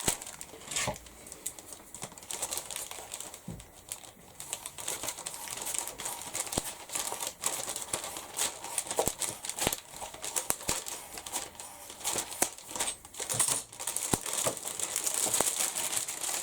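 Plastic packaging crinkling and rustling, with scattered small clicks and taps, as a stamp foam pad is handled and unwrapped.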